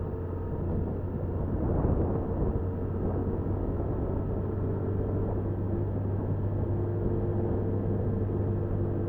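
Honda Super Cub 50 on the move, picked up by its handlebar dashcam: a steady engine hum mixed with continuous wind and road noise.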